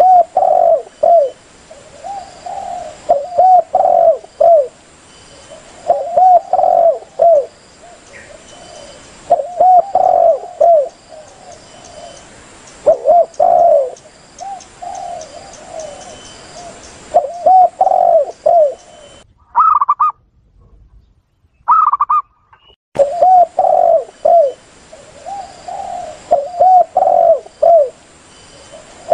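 Recorded cooing of wild doves, a spotted dove and zebra dove lure track: loud phrases of several quick coos repeat every few seconds. About two-thirds through, after a short pause, there are two briefer, higher-pitched calls.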